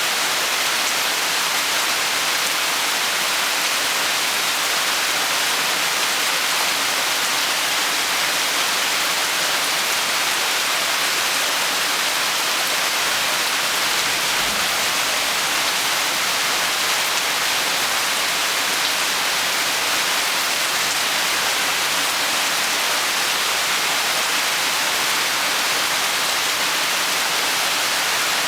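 Rain falling steadily, an even, dense hiss that doesn't let up.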